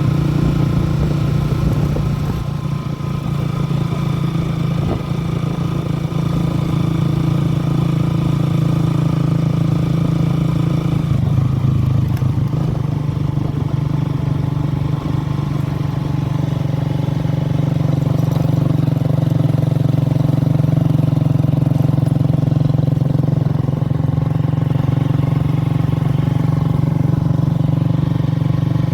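A steady engine drone, changing slightly in tone about eleven seconds in.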